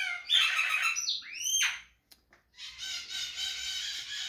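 Birds calling: quick chirps, then loud squawks sweeping sharply down in pitch, a brief gap, and then a steady chatter of high calls.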